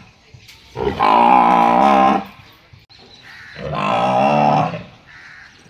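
Cow mooing: two long moos, the first about a second in and the second past the middle.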